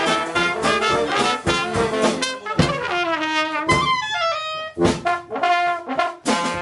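Dixieland jazz band playing, trumpet and trombone leading the ensemble. Past the middle the band holds a long note, a line falls in pitch, and then it comes back with short, separated punches before the full ensemble resumes.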